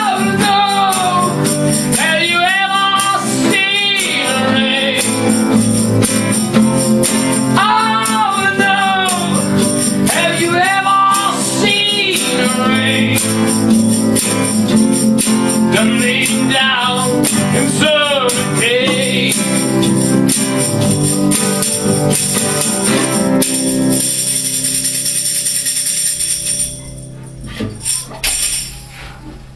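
Rock song with a singer over a band with tambourine. The singing stops about two-thirds of the way through, the band plays on briefly, and the music ends near the end.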